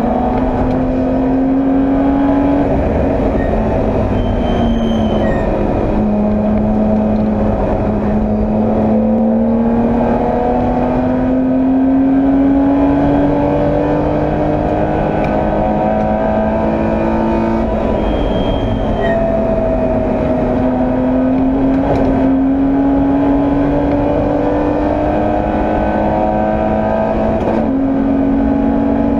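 BMW E30 325i's 2.5-litre straight-six racing engine, heard from inside the car under load. The engine note climbs steadily through the revs and drops back at each gear change, about four times, including one long climb of about ten seconds.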